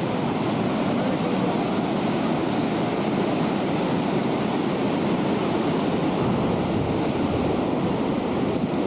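Steady wind noise rushing over the microphone, an even sound without breaks or changes.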